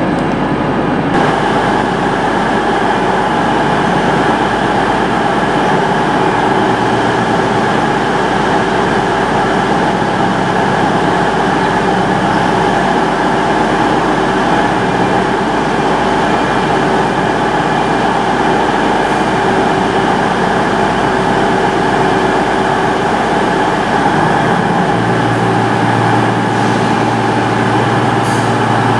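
Class 321 electric multiple unit drawing slowly into a covered station platform, with a steady mechanical hum of several held tones. A deeper hum joins near the end.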